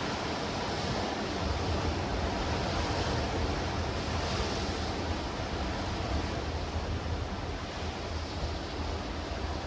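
Sea waves washing against black rocks and stones along the shore: a steady rush of surf. Wind on the microphone adds a low rumble.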